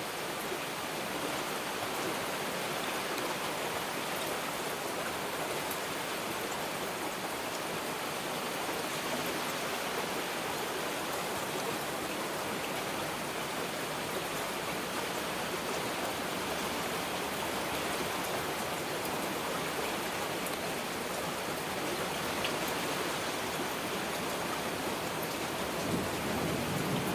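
Heavy rain falling steadily, an even hiss of many drops. Near the end a low rumble of thunder begins to build.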